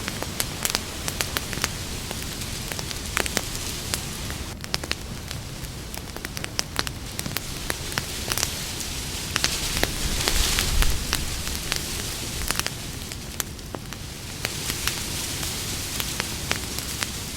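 Wood campfire burning: frequent sharp crackles and pops over a steady hiss, with a louder rush of flame noise about ten seconds in.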